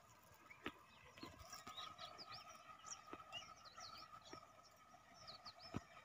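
Faint outdoor birdsong: many short, quick chirps, over a faint steady high tone, with a few light clicks.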